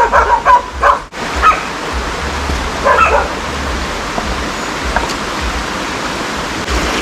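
A dog barking in a quick run of short yelps, then twice more, further apart, over a steady hiss.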